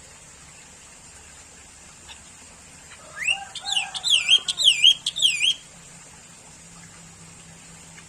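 Sooty-headed bulbul singing one short phrase of quick, wavering up-and-down whistled notes, starting about three seconds in and lasting about two and a half seconds, over a faint steady high hiss.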